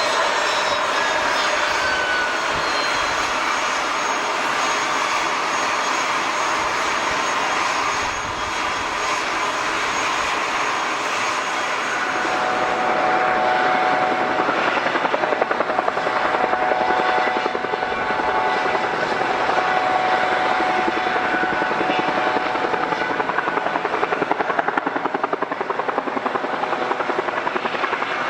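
Aircraft engines running close by: a falling whine in the first seconds, then from about twelve seconds in a steady engine tone with a fast, even pulsing beat, like propeller or rotor blades.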